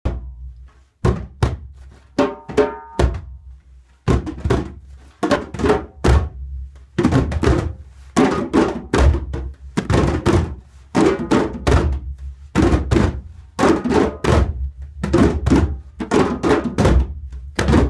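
Drums played in a repeating groove of sharp, thunking hits: a few scattered strokes at first, then a steady, dense rhythm from about four seconds in.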